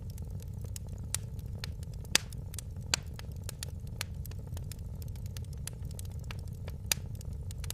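Wood fire in a fireplace crackling: scattered sharp pops and snaps over a steady low rumble, the loudest pop about two seconds in.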